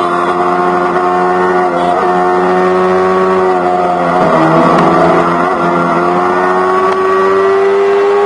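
Yamaha R3 parallel-twin engine running through an Akrapovic GP slip-on exhaust while riding at a steady cruise. The exhaust note holds steady, dips about halfway through, then climbs gradually again.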